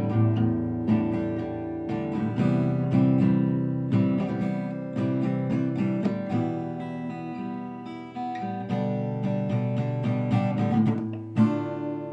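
Acoustic guitar strummed and picked, chords ringing out one after another in an instrumental passage without singing.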